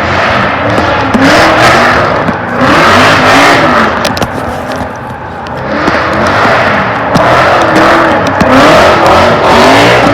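Loud car engine revving hard, its pitch rising and falling over and over about once a second.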